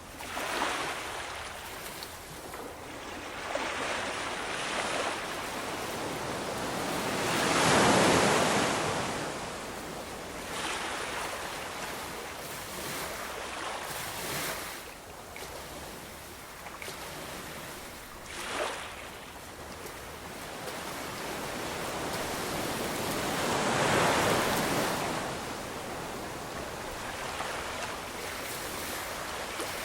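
Ocean waves breaking and washing on the shore, a steady rush of surf that swells and falls back in turn, with the two biggest breakers about eight seconds in and again near twenty-four seconds.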